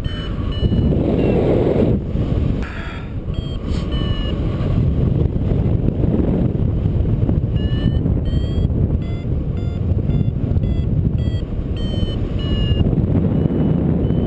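Flight variometer beeping in short tones that step up and down in pitch, the sign of the glider climbing in lift, over heavy wind noise on the microphone.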